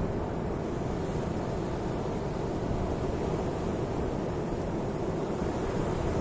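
Ocean surf: a steady, low, rushing wash of waves with no distinct breaks.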